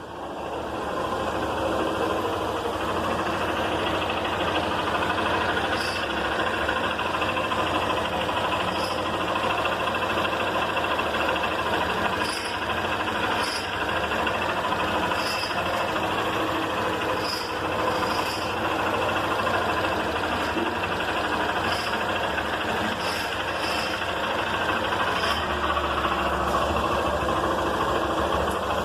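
Motorcycle engine running at a steady speed. A short, sharp tick comes at uneven intervals, about every one to two seconds.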